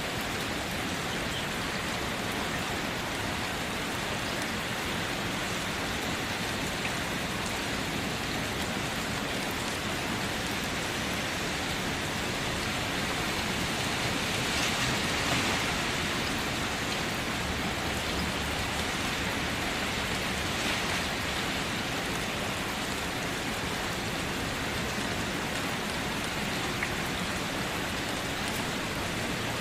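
Steady rain falling: a dense, even hiss that swells a little about halfway through, with a couple of faint sharper drip ticks later on.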